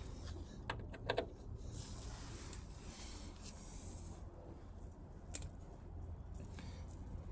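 Light clicks and handling sounds from hand tools and small stainless steel bolts being screwed into a bike's swing arm cover. A quick pair of clicks comes about a second in and another click near five seconds, with a soft rustle in between, over a low steady hum.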